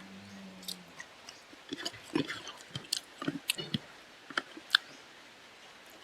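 Close-miked chewing and mouth sounds of a person eating, with irregular wet smacks and sharp clicks.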